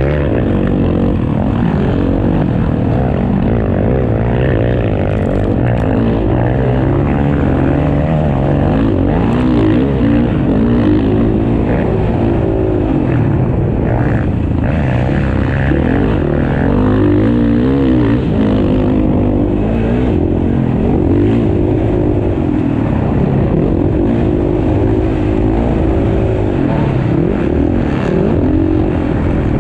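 Several motocross bikes racing, their engines revving up and down and overlapping one another.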